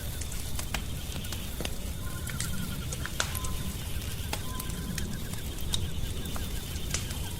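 Wood fire crackling, with sharp pops scattered over a low rumble. A faint fast trilling call comes and goes behind it.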